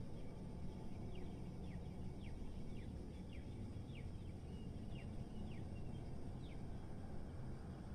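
Steady low rumble of city background noise, with a small bird giving a series of short, falling chirps, about two a second, that stop shortly before the end.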